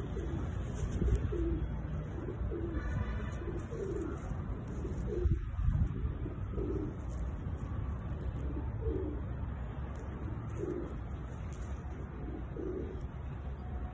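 Domestic pigeons cooing, a series of short low coos repeating about once a second.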